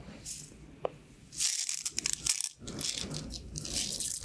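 Many small pins of a pin art toy sliding and clicking against each other, a sound like Skittles or beads. A louder rattling rush comes about a second and a half in, followed by scattered clicks.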